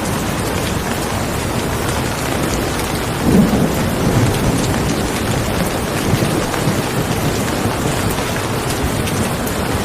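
Steady rain falling, with a low rumble of thunder swelling about three seconds in and fading over the next second or two.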